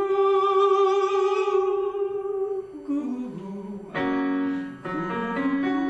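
A male voice student sings a vocal warm-up exercise over an instrumental accompaniment. He holds one steady note for about two and a half seconds, slides down in pitch, then starts new held notes about four seconds in.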